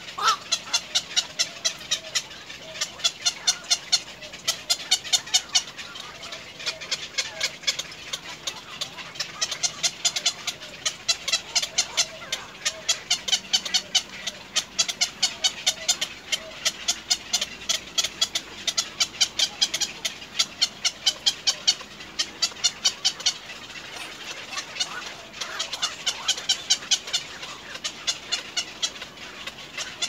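A bird calling in quick, evenly repeated short high notes, about five a second, in long runs broken by a few short pauses.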